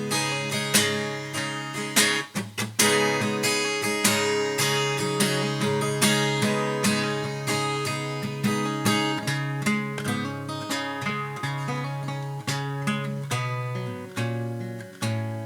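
Acoustic guitar playing an instrumental passage between sung verses: a run of picked notes over a steady bass line, with no voice.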